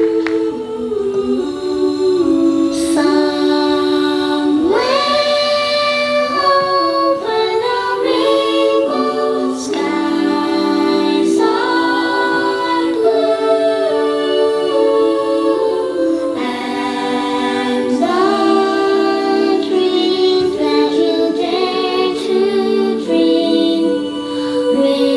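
A cappella vocal group singing in close harmony, several voices holding chords together with a female voice prominent, unaccompanied by instruments.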